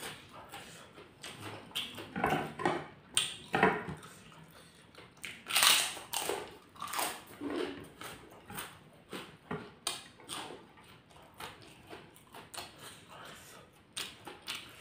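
Close-miked chewing of rice, sambal and kerupuk crackers: irregular wet mouth clicks, smacks and crunches, loudest about six seconds in.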